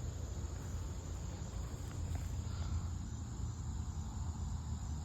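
Steady high-pitched insect chorus, like crickets, over a low steady rumble of outdoor background noise, with only a couple of faint ticks.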